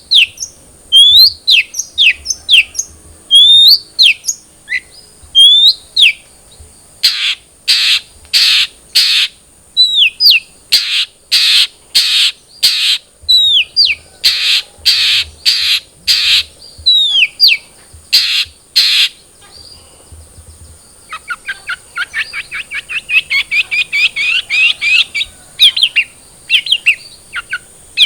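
A young long-tailed shrike (cendet trotol) singing. It opens with sharp hooked whistled notes, then gives groups of harsh rasping calls about two a second. Near the end comes a fast chattering trill.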